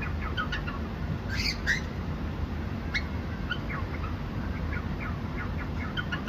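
Cockatiels chirping: a string of short, quick chirps, with a louder, harsher call about one and a half seconds in and a sharp chirp at about three seconds. A steady low hum runs underneath.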